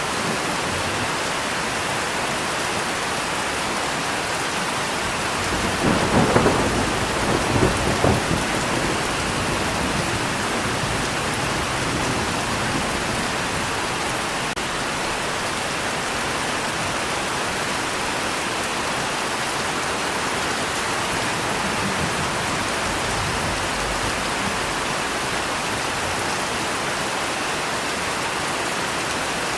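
Steady heavy rain with a crack and rumble of thunder about six seconds in, swelling again around eight seconds before fading back into the rain; a faint distant rumble comes later.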